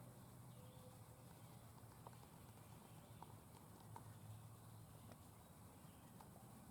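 Near silence: faint low hum with a few scattered soft clicks.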